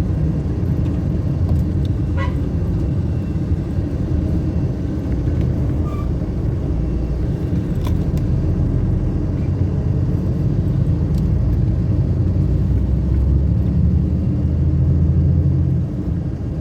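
Motor vehicle on the move: a steady low engine and road rumble, with a few faint clicks.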